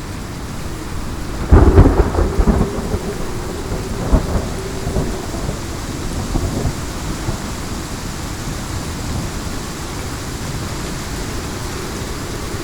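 Heavy rain falling steadily. About a second and a half in, a sharp thunderclap cracks and rumbles on for several seconds, with a second crack near four seconds, then the rumble fades back into the rain.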